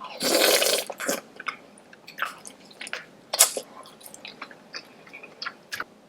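Close-miked wet chewing and lip-smacking of saucy seafood: many short sharp smacks and clicks. A louder noisy burst under a second long comes right at the start, and one sharper smack comes a little past the middle.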